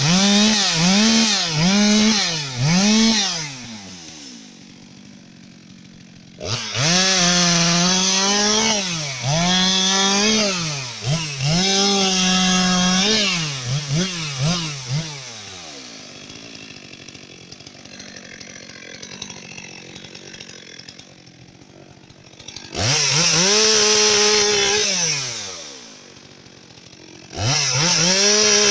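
Two-stroke chainsaw revved hard in repeated spells: quick throttle blips at first, then held at full throttle for several seconds at a time, the pitch sagging and recovering, with quieter stretches between.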